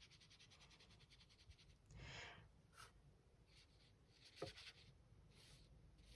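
Faint, short swishes of a watercolour brush, several times, with one small tap about four and a half seconds in.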